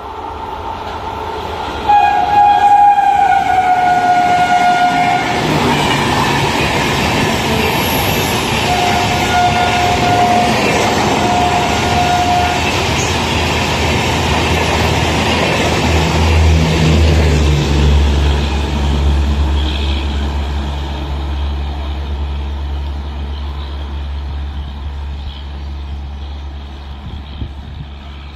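An electric locomotive hauling an express passenger train sounds its two-tone horn in two long blasts, the first about two seconds in and the second about nine seconds in. The train then runs past at speed with a loud rush of wheels on rails and a deep rumble, which fades as the coaches go by and draw away.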